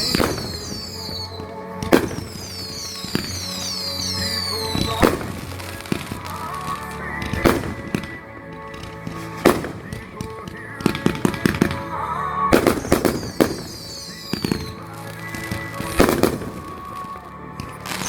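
Backyard consumer fireworks going off: a series of sharp bangs, roughly one every two seconds with a quick rattle of reports a little past the middle, mixed with whistling effects that fall in pitch.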